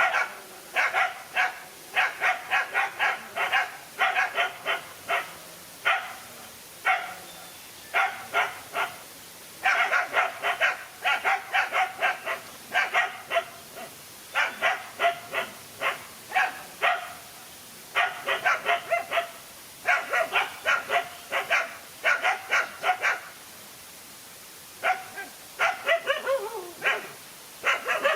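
Dogs barking in rapid runs of several sharp barks, with short breaks between runs. Near the end come a few calls that fall in pitch, like a yelp or whine.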